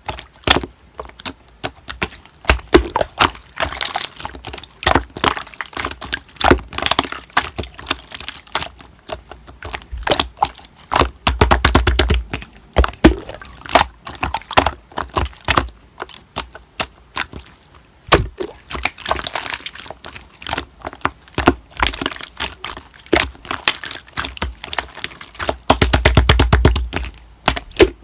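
Slime being squished and stretched by hand, giving dense, irregular crackling clicks and pops, with several thicker bursts lasting a second or two.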